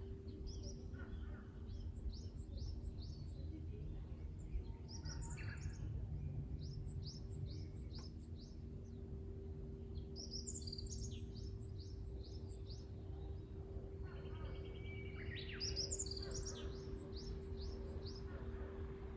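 Small songbirds chirping and singing in quick runs of short high notes, with a buzzier call about three quarters of the way through, over a steady low rumble and a faint constant hum.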